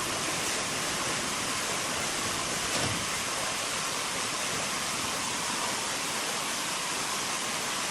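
Steady rushing noise of sawmill machinery running, with a faint knock about three seconds in.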